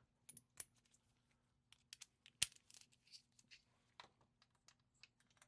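Faint, scattered metallic clicks and clinks of a socket being fitted onto a transmission bolt, with one sharper click about two and a half seconds in.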